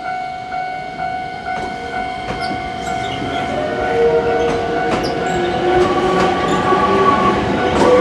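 Level-crossing warning bell ringing in a steady pulse about twice a second. From about three seconds in, an approaching Nankai Koya Line train grows louder, with steady squealing tones from its wheels.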